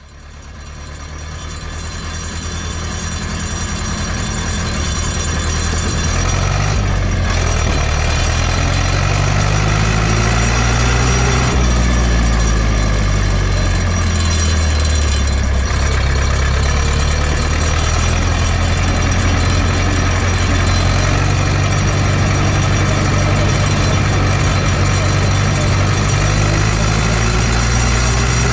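Ursus C-360 tractor's four-cylinder diesel engine running, its pitch rising and falling several times as the engine speed changes. The sound grows louder over the first few seconds.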